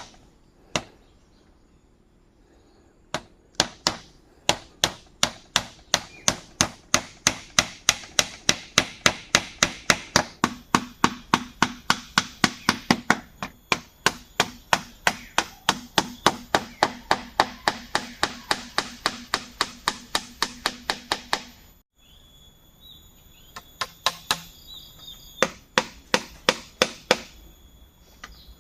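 Rapid, evenly paced tool strikes on bamboo, about three a second, in a long unbroken run. The run stops abruptly about three quarters of the way through, and a few scattered strikes follow after a short gap.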